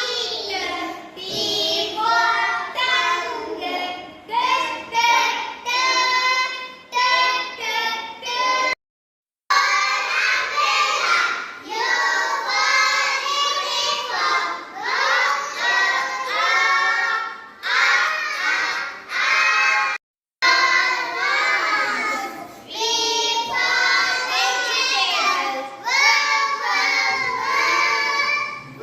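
Young children singing and chanting together, a classroom phonics song of letter sounds, broken by two brief silences about nine and twenty seconds in.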